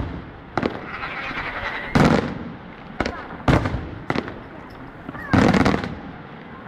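Fireworks going off: a string of sharp bangs at uneven intervals, with a stretch of crackling between the first two bangs.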